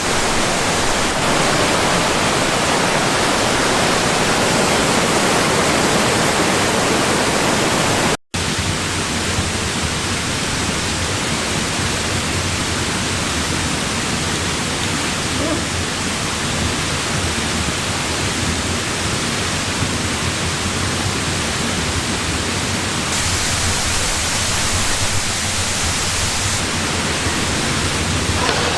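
Steady rush of a waterfall, a constant even roar of falling water, broken by a split-second gap about eight seconds in, after which it carries on with a slightly different tone.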